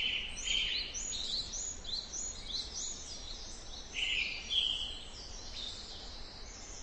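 Birds chirping: many short, high calls, some rising in pitch, overlapping over a faint steady hiss of forest ambience. It cuts off abruptly near the end.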